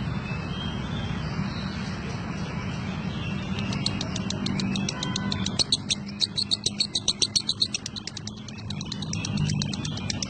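Lovebird chattering in its long 'ngekek' song: a rapid run of sharp, high chirps, about nine a second, starting about three and a half seconds in and stopping after about five seconds. A steady low hum runs underneath.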